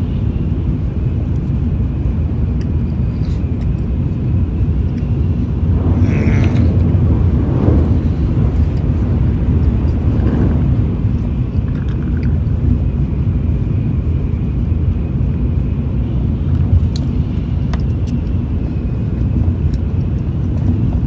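Steady low rumble of a Shinkansen Hikari train running, heard inside the passenger cabin, with a few faint soft sounds near the middle.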